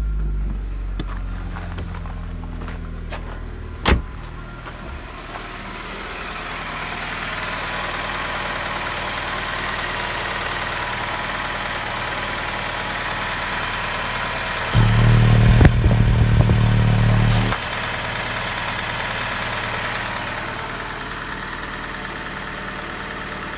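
Nissan SR20Di 2.0-litre four-cylinder petrol engine running at idle. A sharp click comes about four seconds in, and a louder, deep steady hum lasts about three seconds just past the middle.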